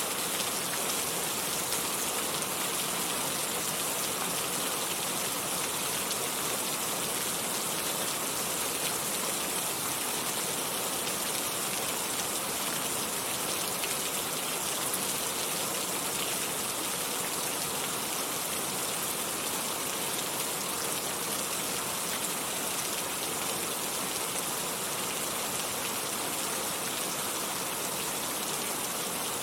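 Steady rain falling, an even hiss of many drops that stays level throughout.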